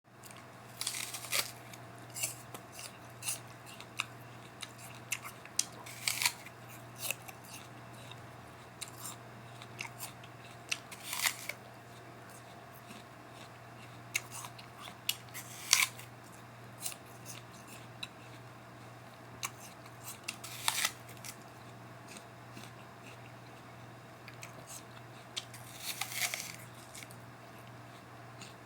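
Crisp apple being bitten and chewed: a loud crunchy bite roughly every five seconds, with softer chewing crunches in between, over a steady low hum.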